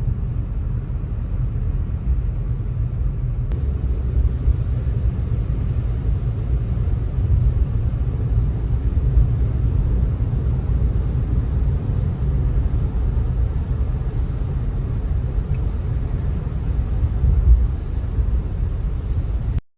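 Car driving on rain-wet roads: a steady low road rumble with a fainter hiss of tyres on the wet surface.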